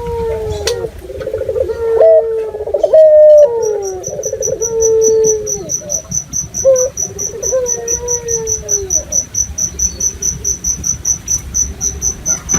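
Several puter doves (Barbary doves) calling over one another with drawn-out, falling coos, loudest two to three seconds in and dying away about nine seconds in. From about three and a half seconds in a cricket chirps in a rapid, even, high-pitched trill that carries on to the end.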